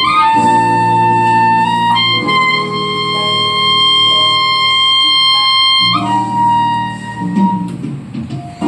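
Clarinet playing a slow, romantic melody in long held notes over a sustained accompaniment; one note is held for about four seconds in the middle.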